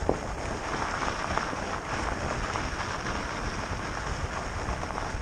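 Electric fatbike riding at speed: fat tyres rolling over a rough surface with a dense crackle of small knocks and rattles, and wind buffeting the microphone. A sharp click comes right at the start.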